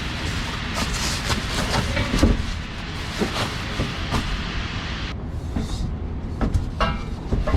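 Vehicle driving: a steady road rumble with scattered knocks and rattles.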